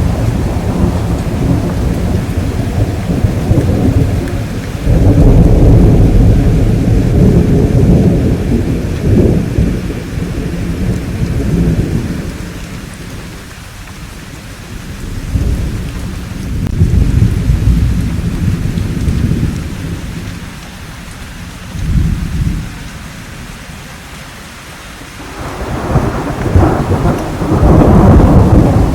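Thunder rumbling in long rolls over steady rain. The rumbles are heavy through the first twelve seconds and ease to quieter swells in the middle, with a short surge a little past two-thirds of the way. A loud new roll builds near the end.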